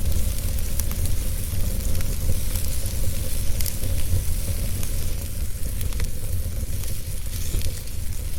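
Crackling fire burning steadily: a constant hiss with scattered sharp pops and crackles, over a low rumble.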